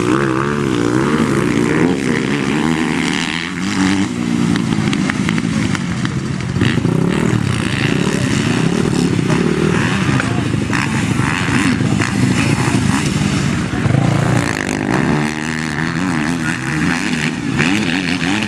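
Several motocross dirt bikes running on the track, their engines revving up and down over one another as the riders work the throttle through the course.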